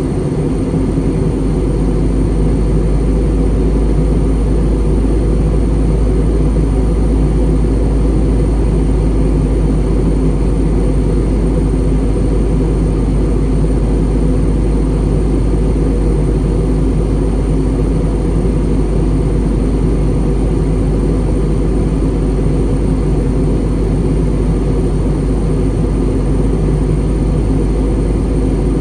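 Airbus A320 cabin noise during descent: a steady, loud rumble of engines and airflow with a few steady low tones and a faint high whine, unchanged throughout.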